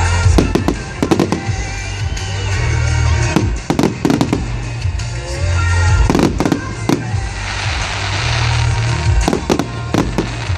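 Fireworks going off in quick succession, a series of sharp bangs with a spell of dense crackling about seven to nine seconds in, over loud music with a heavy bass.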